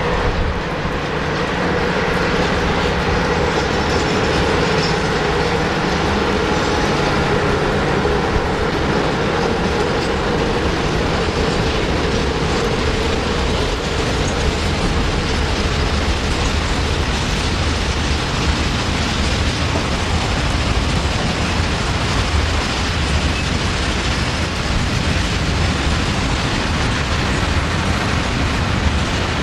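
Long freight train of open wagons and covered steel-coil wagons passing at speed, its wheels rumbling and clattering steadily over the track. A humming tone from the departing locomotives fades out over the first ten seconds.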